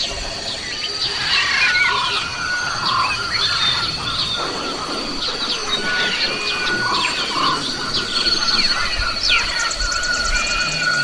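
Many birds chirping and calling in quick, overlapping short notes, over a steady high-pitched buzz.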